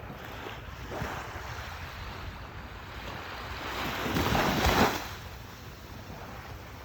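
A steady rushing noise, like wind or surf, that swells to its loudest between about four and five seconds in and then falls back.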